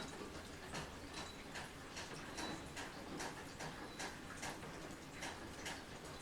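Rain dripping: drops tick about two to three times a second over a soft hiss of rain, with a faint short high bird peep recurring every second or so.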